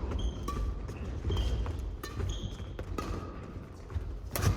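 Badminton doubles rally on an indoor court: sports shoes squeak again and again on the floor, and sharp racket hits on the shuttlecock come about two seconds in and again near the end.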